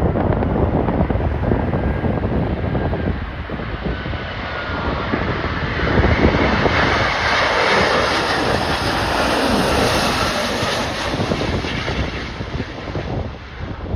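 Jet airliner on final approach passing by, its engine noise swelling to a peak about halfway through and fading, the pitch dropping as it goes past. Gusty wind buffets the microphone throughout.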